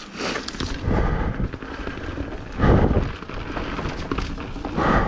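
Mountain bike riding down a wet dirt trail: a steady rumble of tyres, rattle and wind on the mic, with heavy low thumps about a second in, near the middle and near the end as the bike hits bumps.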